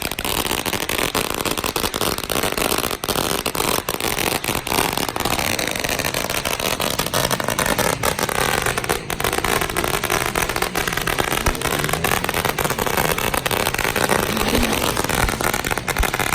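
Dirt bike engine revving, its pitch rising and falling several times over a steady loud engine noise.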